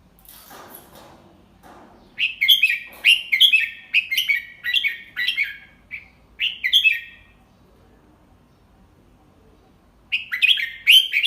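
Red-whiskered bulbul singing: runs of quick, bright, chirpy notes, one phrase about two seconds in lasting several seconds, then a pause and another phrase near the end. A faint rustle comes just before the first phrase.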